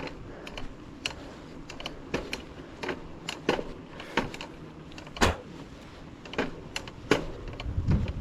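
Irregular sharp clicks and knocks, about one or two a second, from a bicycle being ridden, with a low thump near the end.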